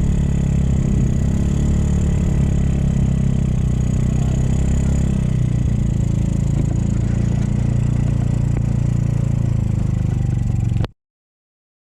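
Motorcycle engine running at a steady pace while riding, with steady wind and road rumble, cutting off abruptly near the end.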